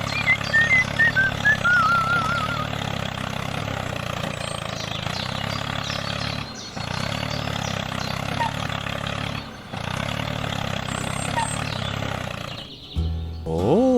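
A small construction vehicle's engine running steadily, with warbling bird-like calls over it in the first few seconds. Near the end a short tone sweeps up and then back down.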